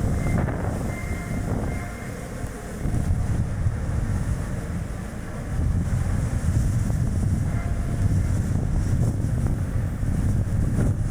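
Strong wind buffeting the action camera's microphone, mixed with the tyre and road rumble of a Chevrolet Spark light car driving. The gusting rumble eases about two seconds in, then grows stronger from about halfway.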